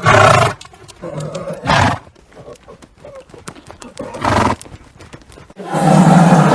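A horse: three short loud calls about two seconds apart, with faint hoof clops between them. About a second before the end a long, loud roar of a big cat begins.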